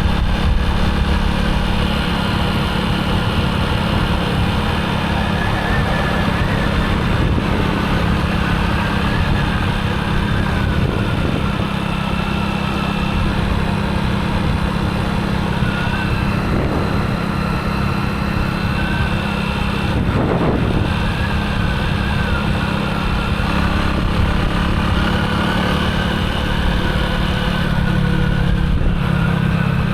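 Motorcycle engine running steadily while being ridden, with road noise.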